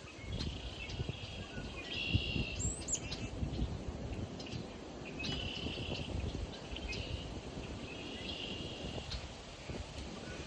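A songbird singing short, even trills about a second long, repeated every few seconds, over a low wind rumble on the microphone.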